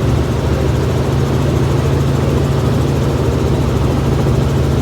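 Helicopter in flight, heard from inside the cabin: a loud, steady engine and rotor drone with a strong low hum.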